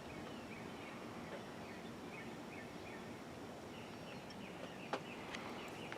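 Small birds chirping faintly over a steady background hiss, with a couple of short clicks about five seconds in.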